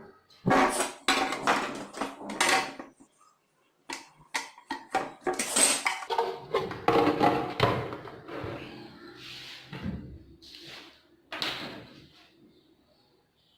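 Irregular clatter and knocks of hard objects being handled and set down on a work surface, with a short pause about three seconds in.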